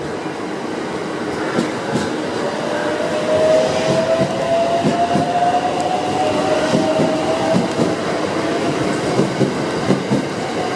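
683 series electric train rolling past on departure, its wheels clattering over rail joints in a fast, steady rhythm. A thin whine rises gently in pitch through the middle and then fades.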